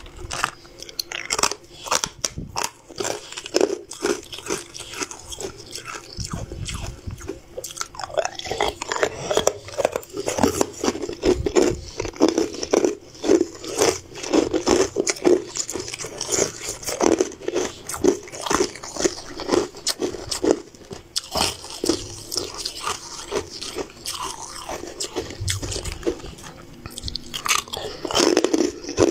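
A person biting and chewing crunchy, frosted blue sweets close to the microphone, a rapid run of sharp crunches.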